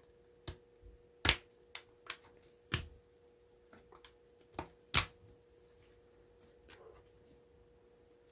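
Scattered sharp clicks and knocks of small metal parts and hand tools being handled while an appliance is taken apart for its copper, with three louder knocks in the first five seconds. A faint steady hum runs underneath.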